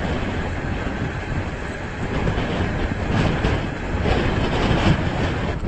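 Strong wind blowing hard across the microphone: a steady rushing, rumbling noise that swells and eases in gusts.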